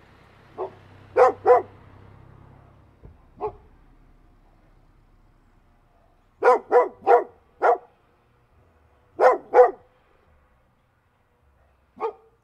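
Dog barking in short groups of two to four barks with pauses between, ending on a single bark.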